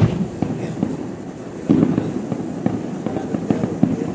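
Distant fireworks going off in a rapid, irregular string of bangs and pops, with a loud bang at the start and a dense cluster about two seconds in.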